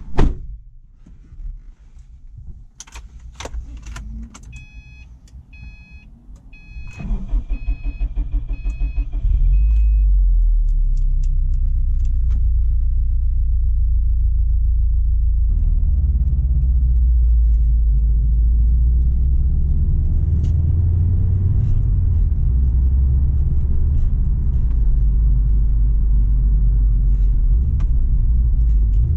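A thump, a few clicks, and a dashboard warning chime beeping repeatedly; then the starter cranks for about two seconds and the Subaru Impreza STI's turbocharged flat-four catches about nine seconds in, settling into a loud, steady idle through its Milltek exhaust.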